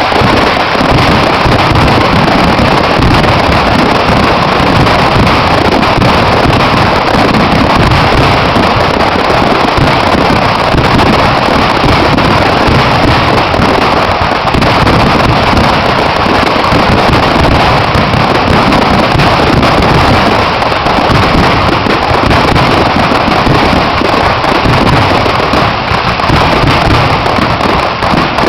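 Fireworks exploding in a loud, unbroken barrage, bursts running together with no gaps between them.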